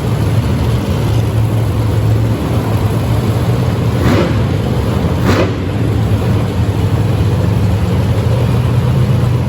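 Monster truck engine running loud and steady, with two quick revs about four and five seconds in.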